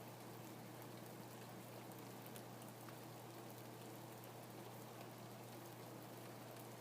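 Faint, steady rain: an even hiss with scattered light drop ticks, over a steady low hum.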